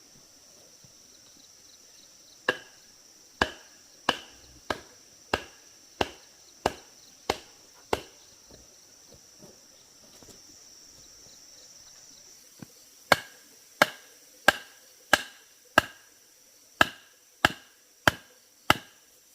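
A blade chopping bamboo: two runs of sharp, ringing strikes at a steady pace of about one and a half a second, the first of about nine strikes starting a couple of seconds in, the second of about ten after a pause of some five seconds.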